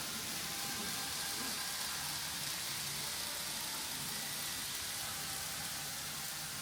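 Steady hissing background noise with no distinct events, and a few faint tones under it.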